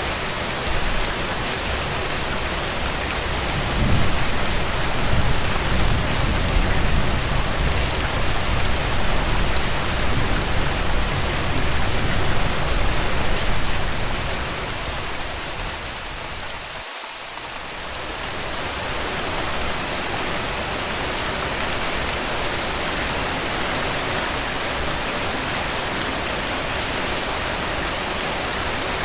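Steady rain pattering on a tent, with a low rumble swelling under it from about four seconds in until about fourteen, and a brief dip in level soon after.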